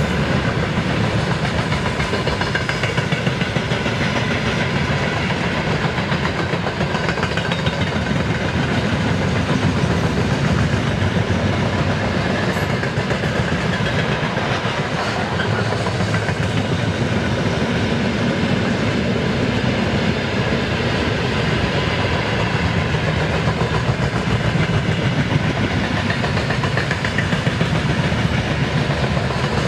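Long freight train hauled by a VL10K electric locomotive rolling past at steady speed, its wagons' wheels rumbling and clattering over the rails without letting up.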